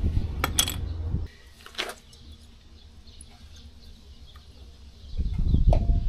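A few light metallic clinks of hand tools and brake parts during a brake pad change, with low rumbling handling noise near the start and again near the end and a quieter stretch between.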